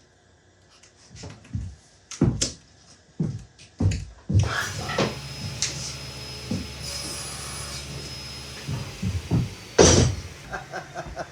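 A few knocks from a workpiece being handled, then a power saw runs for about four seconds. The hiss rises midway as the blade cuts the piece in half, and the saw stops. A loud click follows near the end.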